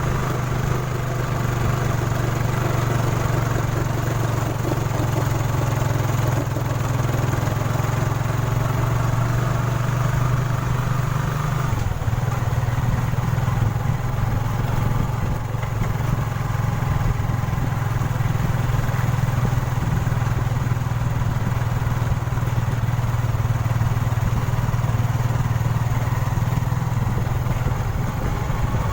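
Motorcycle engine running steadily, changing note about twelve seconds in.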